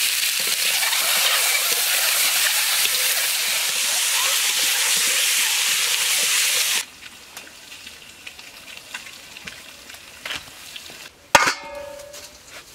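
Food sizzling and frying in a hot wok while a spatula stirs it; the sizzle cuts off suddenly about seven seconds in. Near the end, one sharp metallic clang of steel cookware, ringing briefly.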